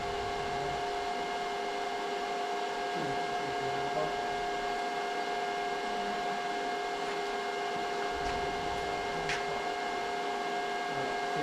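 Steady machine hum with two constant tones over a faint hiss, unchanging throughout.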